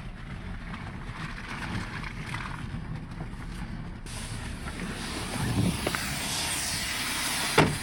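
Jeep driving slowly over a rough dirt trail, a steady low engine and road rumble. About four seconds in the sound turns abruptly hissier, and a brief sharp squeak comes near the end.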